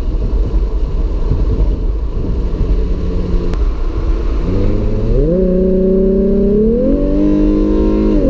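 Car engine accelerating under a steady road rumble: about halfway in the engine note climbs, holds, climbs again, then drops sharply near the end at a gear change.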